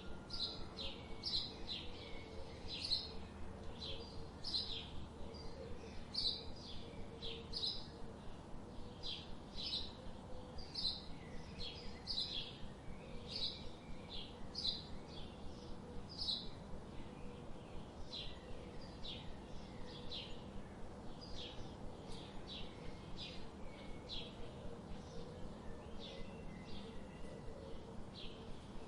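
Birds chirping: a steady run of short, high chirps, roughly one or two a second, over a faint background hiss.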